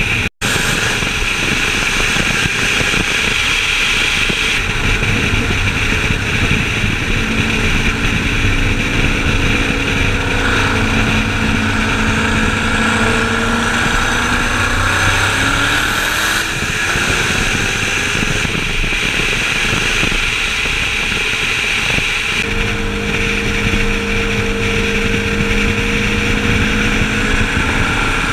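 Turbocharged Corvette V8 running at road speed under steady wind and road noise. Its engine note holds mostly level and rises briefly about halfway through. The sound cuts out for an instant just after the start.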